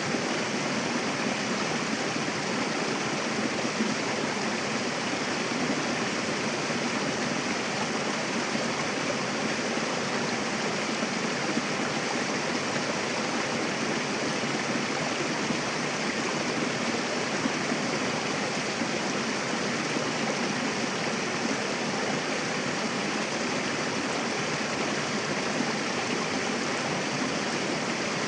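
Mountain river rushing over rocks: a steady, dense hiss of flowing water that keeps an even level throughout.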